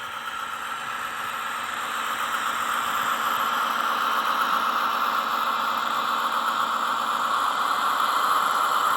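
Roco model ÖBB 2067 diesel shunting locomotive running, its Zimo sound decoder playing diesel engine sound through the model's small speaker along with the whir of its drive. The sound grows louder over the first three seconds, then holds steady.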